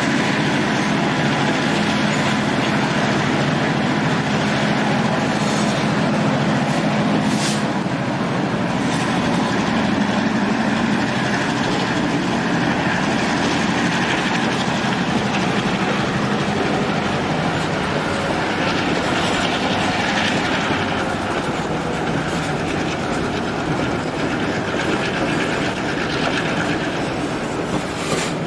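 Diesel-hauled passenger train rolling along, heard from aboard: the wheels clack over the rail joints above a steady low engine rumble, with a few short sharper clanks.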